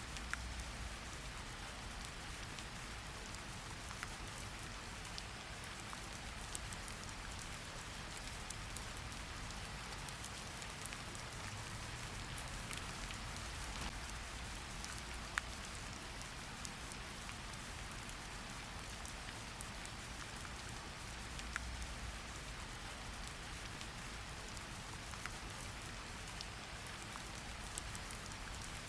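Steady rain falling, an even hiss with scattered sharp drip ticks and a faint low rumble that swells now and then.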